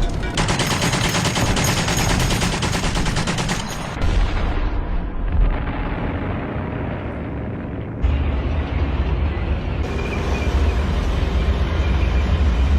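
Rapid machine-gun fire for about four seconds. It then cuts abruptly to a heavy, deep rumble, which changes suddenly again about eight seconds in.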